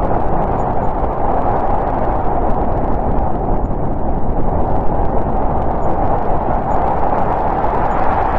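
Snowstorm wind blowing steadily: an unbroken rushing with a low rumble beneath.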